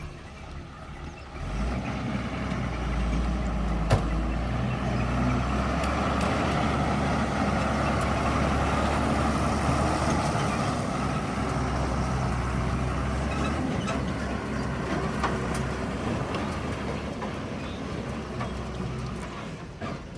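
Heavy diesel truck engine running loud and steady. It comes in suddenly about a second and a half in and grows gradually quieter toward the end.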